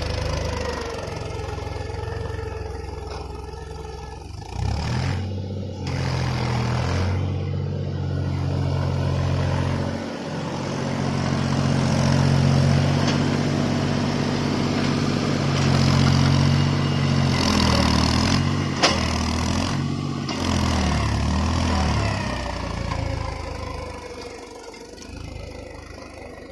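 Tractor engine running while pulling a plough through the field, its pitch rising and falling as the engine speed changes. A single sharp click sounds about two-thirds of the way through, and the engine fades away near the end.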